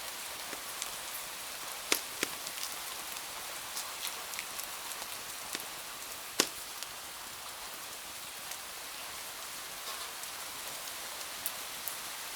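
Steady hiss of rain with scattered sharp pops and cracks from a crackling wood fire, the loudest pops about two seconds and six and a half seconds in.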